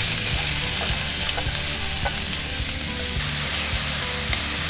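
Diced yellow onion sizzling in hot olive oil in a stainless steel pan: a steady frying hiss. A metal spoon stirring through the onions gives a few light clicks and scrapes against the pan.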